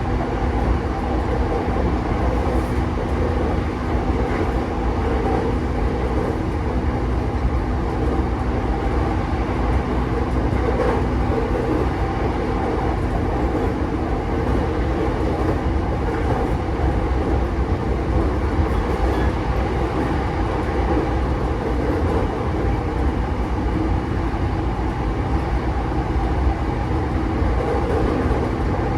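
JR East E233-5000 series electric commuter train running between stations: steady rumble of wheels on rail. A thin steady low hum runs alongside it and stops about twelve seconds in.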